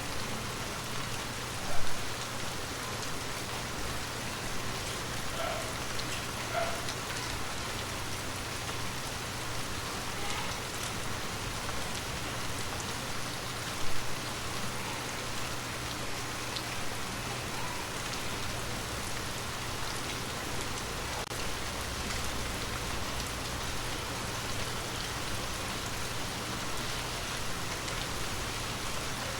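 Water drops pattering steadily on glass, dense like light rain. Two single louder drops land, one about two seconds in and one about fourteen seconds in.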